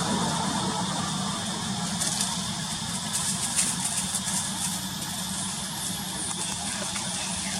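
A steady low engine hum, like a motor vehicle idling or running, over a background hiss, with a few faint clicks.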